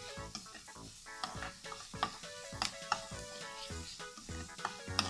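Diced onion, garlic and ginger sizzling in a stainless steel pan, stirred with a spatula that clicks and scrapes against the metal several times, over background music.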